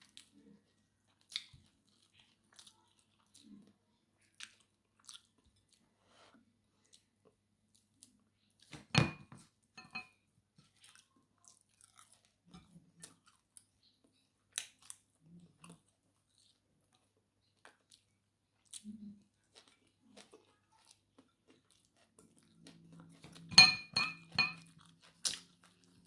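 Close-up chewing and crunching of fried fish eaten by hand, heard as scattered small mouth clicks. A louder sharp knock comes about nine seconds in, and a short cluster of louder knocks comes near the end.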